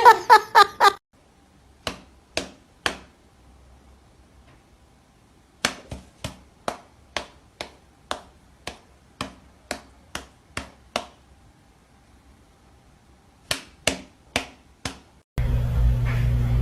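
Runs of sharp taps, about two a second, with quiet gaps between the runs. Near the end they give way abruptly to a steady low hum.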